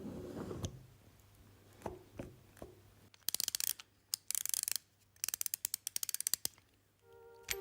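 Ratchet wrench clicking in three quick runs as bolts are turned on a Ural motorcycle, after a few light knocks of tools on metal. Piano music comes in near the end.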